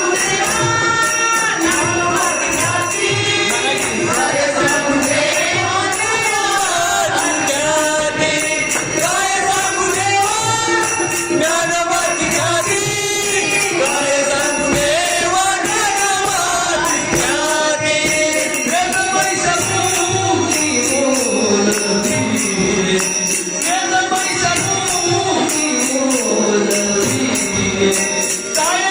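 A solo voice singing a Marathi devotional abhang with sliding, ornamented notes, dropping lower in pitch in the last third. Steady jingling percussion keeps the beat underneath.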